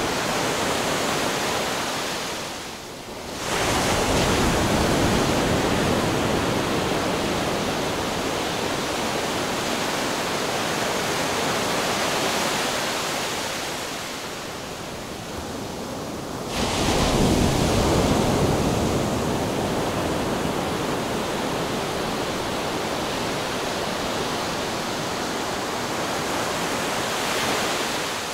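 Rushing wind and sea-surf sound effect, a steady noise that swells and ebbs, dipping briefly about three seconds in and again about sixteen seconds in before surging back.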